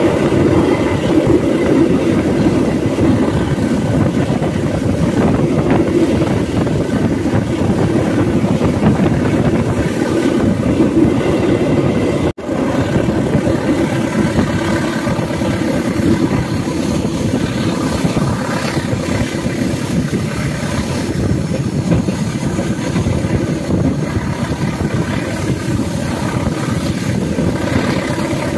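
Passenger train running along the track, heard from on board: a steady rumble of wheels on rails. The sound cuts out for an instant about twelve seconds in.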